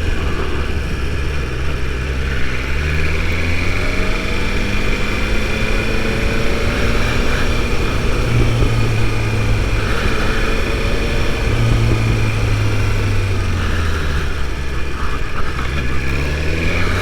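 2022 BMW S1000RR's inline-four engine under way, rising in pitch a few seconds in as the bike accelerates, then holding a steady pitch and shifting again near the end. Wind rushes over the helmet microphone, which has no windsock.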